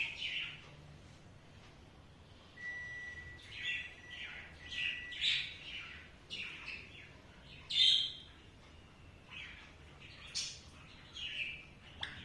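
Alexandrine parakeet giving soft, short chirps and squeaks, scattered irregularly.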